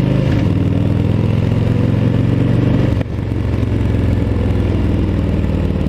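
Motorcycle engine running at low speed under light throttle and clutch during a slow U-turn, easing off briefly about halfway through.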